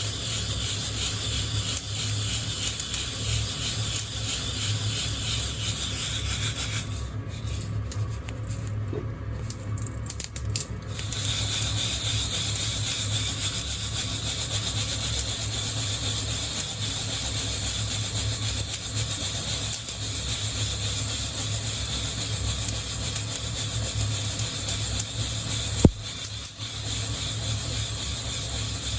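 Coffee beans rustling and scraping against the wire mesh of a hand-held roasting net as it is shaken, a continuous rubbing sound. The hiss thins out for a few seconds about a quarter of the way in, and a single sharp click comes near the end.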